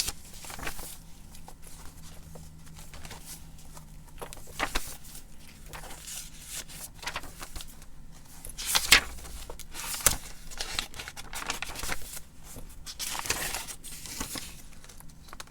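Paper pages of a handmade junk journal rustling and crinkling as they are turned and handled, in scattered strokes, the loudest about nine seconds in and another a second later.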